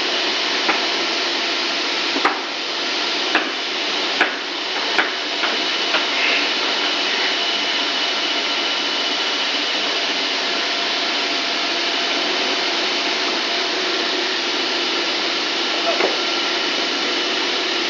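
Extruder machine running steadily with a constant mechanical hum and whine, broken by several sharp knocks or clicks in the first six seconds and one more near the end.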